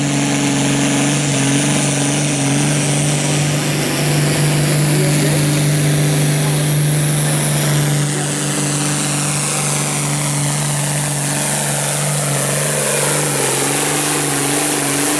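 Diesel farm tractor at full throttle pulling a weight-transfer sled down the track, its engine holding a steady pitch under heavy load with a high whine above it. The whine glides slowly downward over the second half.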